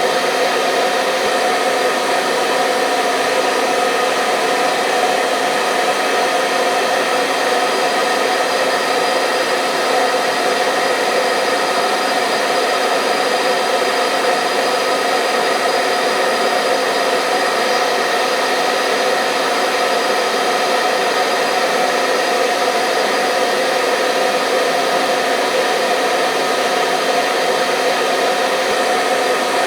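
Hair dryer blowing steadily, a constant whooshing hiss with a faint motor hum and no change in speed.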